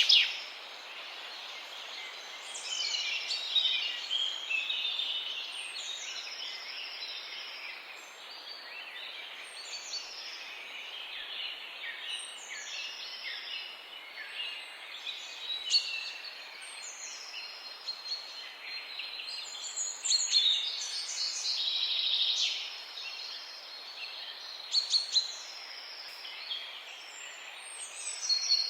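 Morning chorus of songbirds chirping and singing over a steady background hiss, one bird repeating a short high call that drops in pitch every couple of seconds, with bursts of louder chattering calls now and then.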